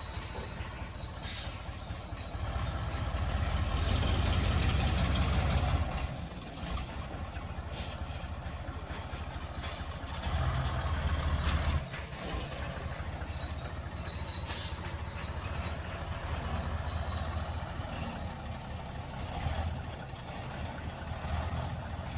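Heavy truck engine running, revving up hard twice under load, with two short sharp hisses of air from the brakes.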